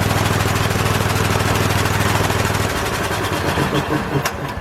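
Craftsman 16882 half-inch air impact wrench hammering a wheel lug nut tight with a rapid, even rattle. The strikes become more separate near the end before it stops. The owner judges its torque far short of the rated 400 foot-pounds.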